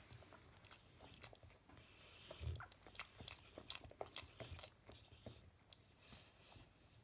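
Faint, irregular clicks and smacks from a sleeping Bullmastiff's mouth and jaw as its face twitches, with soft breathing between them.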